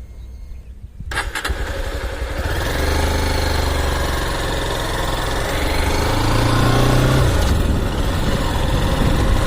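Motorcycle engine coming in sharply about a second in, then running as the bike rides off, its pitch rising and falling with the throttle.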